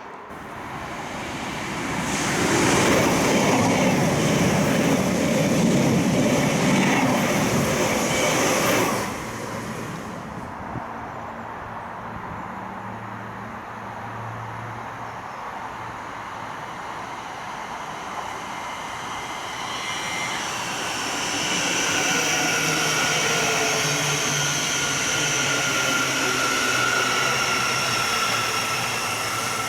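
A passenger train running past at speed, a loud rush that cuts off suddenly about nine seconds in. Then, over the last ten seconds, another train draws near with a whine of several steady high tones building in level.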